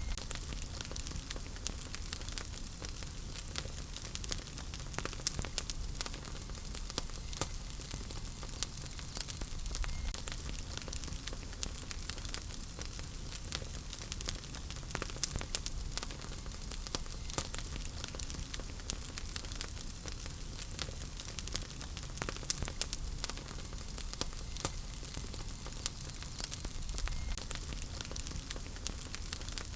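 Wood fire burning in a fireplace: steady low rumble and hiss with frequent small sharp crackles and pops throughout.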